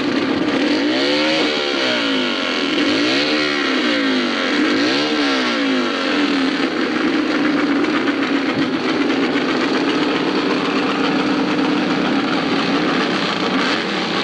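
Hillclimb motorcycle engine revved up and down about three times, then held at a steady high pitch for several seconds.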